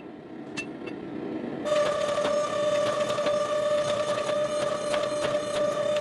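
Two last ringing hammer blows on metal. About two seconds in, a steady machine starts running with a constant hum-whine, a hiss and scattered rattling clicks.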